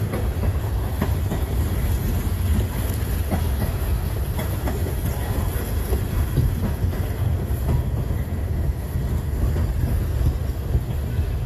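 Freight train cars rolling past, a steady low rumble with faint clicking of wheels over the rails.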